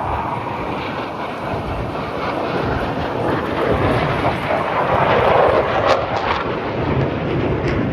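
Jet engine noise from Blue Angels F/A-18 Super Hornets flying past: a falling whine at the start, then a rush that builds to its loudest about five seconds in, with a few sharp crackles. Wind buffets the microphone.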